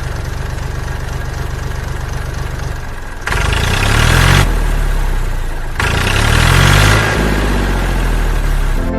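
An engine idling with a steady, rapid low chug, then revving up twice, its pitch rising and falling, from about three seconds in.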